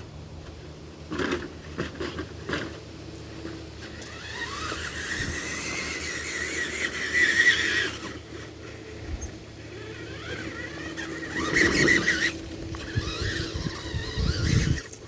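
Tamiya TXT-2 RC monster truck's electric motors and gearboxes whining as it drives. The pitch rises as it speeds up about four seconds in and again around twelve seconds, with knocks and scraping from the tyres and chassis over the ground.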